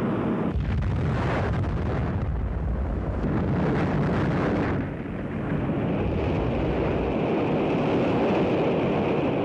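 Atlas-Centaur rocket exploding in flight: a sudden deep boom about half a second in, followed by a long rumbling roar that dips briefly near the middle and then carries on.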